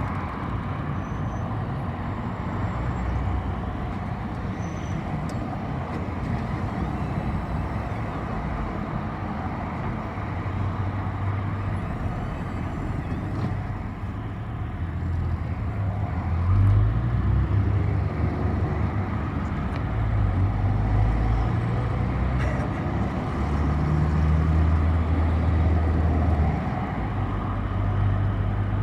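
City bus in motion heard from inside: steady engine and road noise, with the low engine drone growing louder and swelling in and out from about halfway through.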